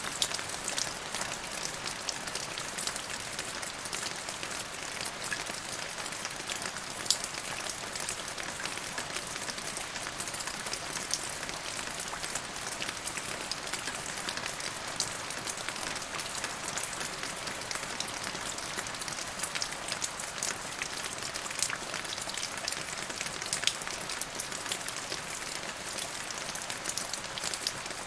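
Steady rain falling on a surface, a continuous patter with many distinct drop ticks over a soft hiss.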